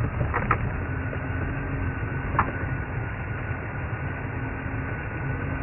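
Safari game-drive vehicle's engine running with a steady low rumble, with a few short clicks.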